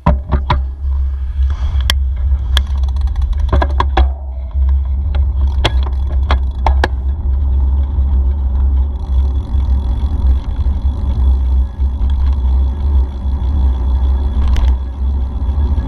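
Riding a bicycle down a forest trail: heavy low wind rumble on the microphone, with sharp clicks and rattles of the bike over rough ground, most of them in the first half.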